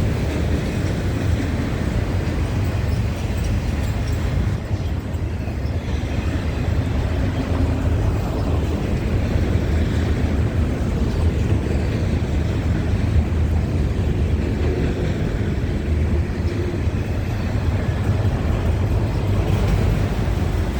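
Norfolk Southern freight train rolling past: a steady low rumble of the cars on the rails.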